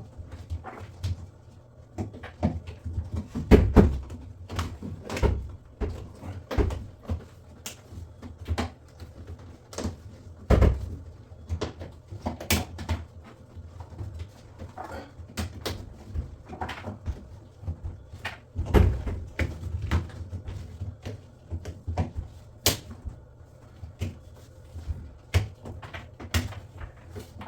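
Irregular knocks, clicks and a few heavier thuds as a drum washing machine is handled and fitted back together.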